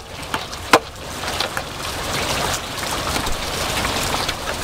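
Steady rain falling on wet pavement, with one sharp knock about three-quarters of a second in.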